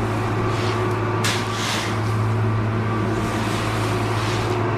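A grain bin's auger motor running with a steady, loud hum, while a shovel scrapes corn across the metal bin floor in a couple of short strokes early on.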